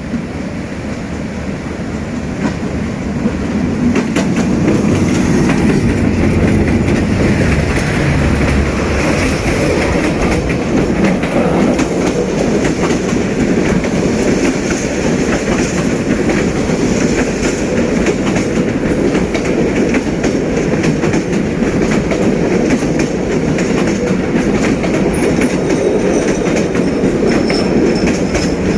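Passenger train hauled by a D19E diesel-electric locomotive running on the rails, with a steady rumble and wheels clacking over the rail joints. The sound swells over the first few seconds, then holds steady.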